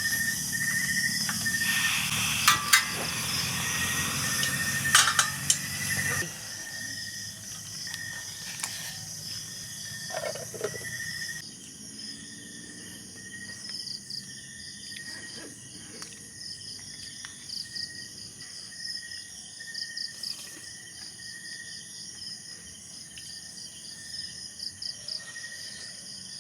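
Insects chirping in a steady, pulsing chorus of high, thin notes. The first six seconds carry a louder noisy stretch with a few sharp clicks.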